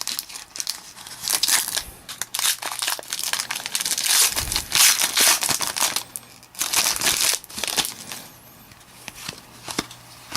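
Trading card packs and cards being handled: irregular crinkling and rustling of the pack wrapper and card stock, busiest in the first half and quieter near the end.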